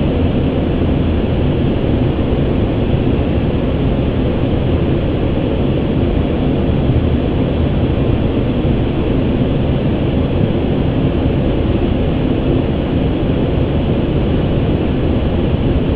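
Steady rushing noise on an Airbus A350 flight deck on final approach: airflow and aircraft noise, even and unbroken, heaviest at the low end.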